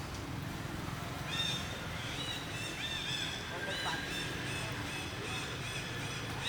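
Many short, high-pitched chirping squeaks from several animals, overlapping at different pitches, over a steady low hum.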